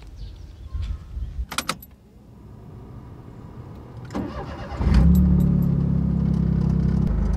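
A couple of sharp knocks, then a car engine cranked by its starter for under a second, catching about five seconds in with a brief rise in revs and settling into a steady idle.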